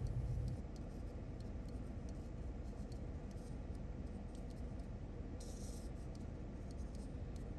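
Hands working the small clockwork gearbox of a vintage wind-up toy: faint scattered clicks and rubbing, with a short scratchy rasp about five and a half seconds in. A low rumble cuts off about half a second in.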